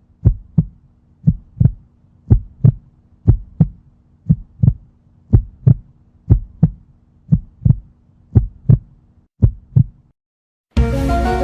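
Heartbeat sound effect: paired lub-dub thumps about once a second, with a faint steady hum beneath. It stops about ten seconds in.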